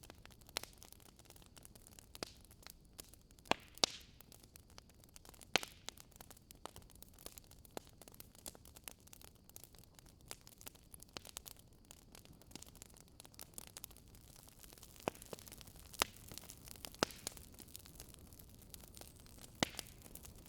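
Campfire crackling: burning wood gives irregular sharp pops and snaps over a low, steady hiss. A few louder pops stand out.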